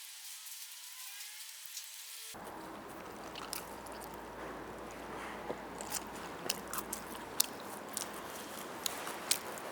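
Close-miked eating of roast chicken: after a steady hiss in the first two seconds, chewing and biting with many sharp wet clicks and smacks.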